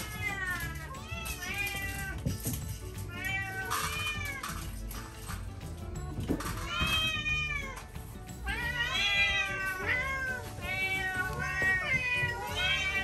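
Several domestic cats meowing again and again, their calls overlapping and coming thicker and faster in the second half: cats clamouring for their evening meal.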